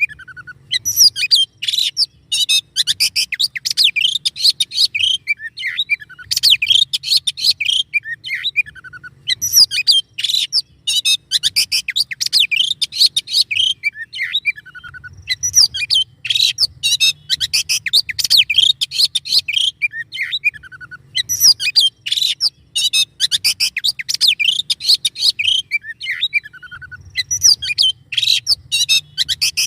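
Songbird song: dense, rapid, harsh chirping notes in phrases of several seconds, broken by short pauses, some phrases ending in a falling trill. A faint low hum runs underneath.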